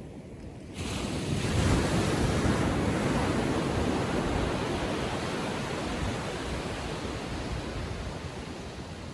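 A small ocean wave breaking on the beach about a second in, its surf hissing up the shore and slowly fading.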